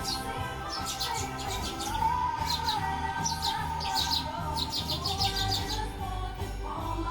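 Sparrows chirping in quick runs of short high notes, over Christmas music with a sung melody.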